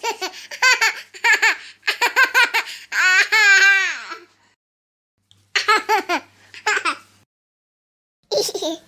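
A baby laughing in quick giggling bursts, with one long drawn-out squeal of laughter about three seconds in. There are two short breaks in the laughter, at about the middle and near the end.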